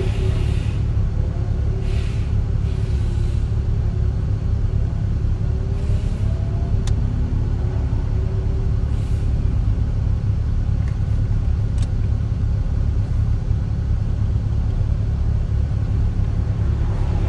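Nissan 370Z's 3.7-litre V6 idling steadily, a low rumble heard inside the cabin, with two faint clicks in the middle.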